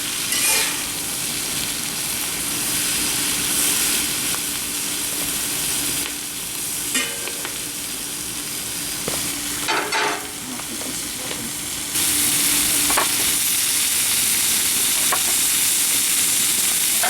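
Chicken and fresh vegetables sizzling in a very hot carbon-steel wok over a charcoal fire, a steady frying hiss that gets louder about twelve seconds in. A few short scrapes or clinks come from the stirring.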